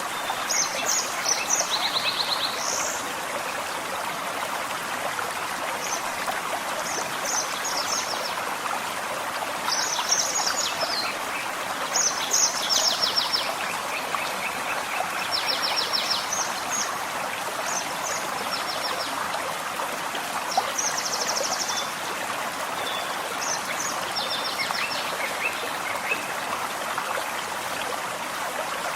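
Forest stream running with a steady rush of water, while songbirds sing short, high, trilled phrases every few seconds.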